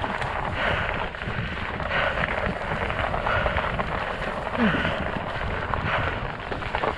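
Wind buffeting the microphone during a fat-bike ride over snow, with a hiss that comes back about every second and a quarter, and a short falling squeak a little after halfway through.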